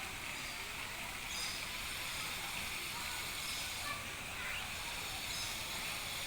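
Steady outdoor background hiss with faint distant voices and a few faint short chirps, one rising briefly about halfway through.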